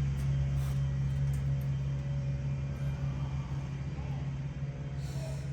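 A steady, unchanging low mechanical hum, with a few faint knocks and a short hiss near the end.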